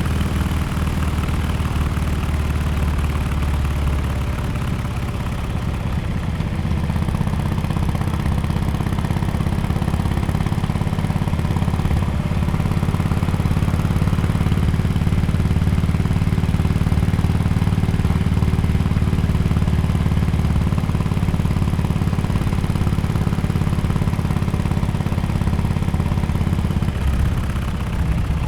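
Harley-Davidson Sportster XL1200X Forty-Eight's 1200 cc air-cooled V-twin running through an aftermarket exhaust, with a steady low engine note. The note shifts about four seconds in and again near the end.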